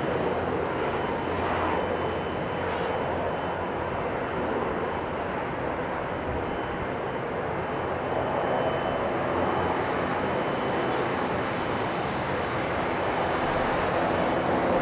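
Helicopters flying low overhead: a steady drone of engines and rotors.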